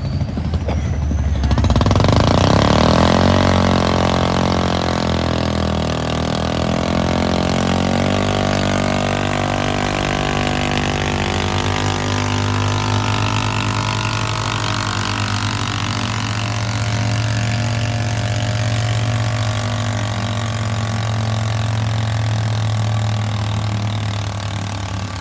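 A tractor engine at full throttle pulling a sled under heavy load. It opens up about a second and a half in, sags in pitch over the next few seconds as the load builds, then runs hard and steady.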